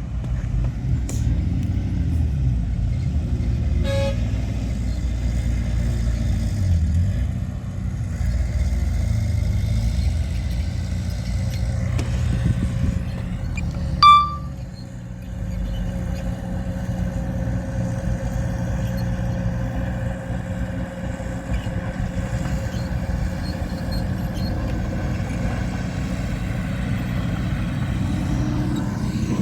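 Heavy diesel earthmoving machinery running steadily with a low rumble, with one short horn toot about halfway through.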